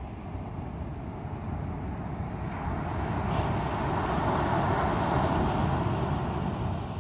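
Ocean surf: waves breaking and washing ashore, a wave swelling up about halfway through and easing off near the end.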